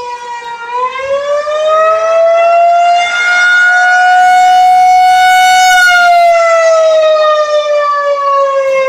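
Outdoor tornado warning siren (civil defense siren) sounding loud: its wail climbs in pitch about a second in, holds steady, then slowly sinks over the last few seconds. It is sounding a tornado warning.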